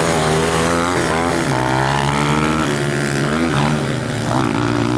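Small pit bike engine running under riding load, its pitch rising and falling several times as the throttle opens and closes.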